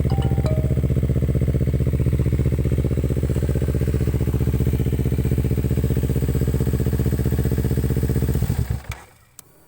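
Four-stroke Kawasaki Ninja motorcycle with an aftermarket racing exhaust idling steadily, then switched off about eight and a half seconds in, the exhaust note dying away within half a second. A single sharp click follows.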